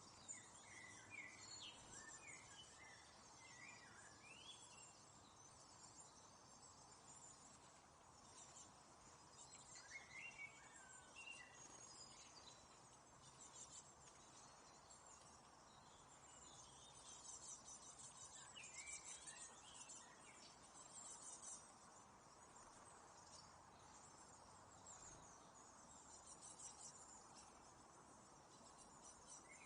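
Faint small birds chirping in short clusters of quick calls every several seconds, over a steady outdoor hiss.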